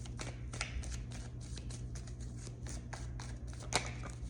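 Tarot cards being handled and shuffled: a run of small, irregular card flicks and clicks, one sharper click near the end, over a steady low hum.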